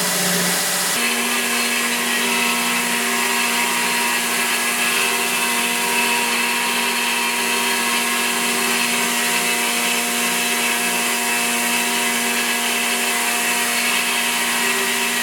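An electric power tool running steadily with a constant whine; its tone shifts about a second in.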